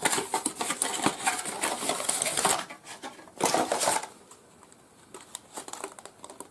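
Packaging being handled and opened: rapid plastic and cardboard rustling and clattering, with one louder burst at about three and a half seconds, then it goes quiet apart from a few light clicks.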